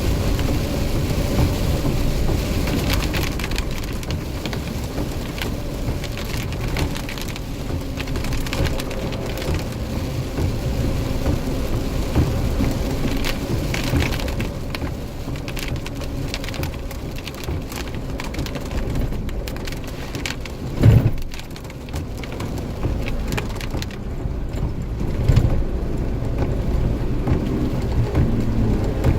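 Heavy rain pouring down during a thunderstorm, with rumbling throughout. About 21 seconds in there is a sudden loud low thump.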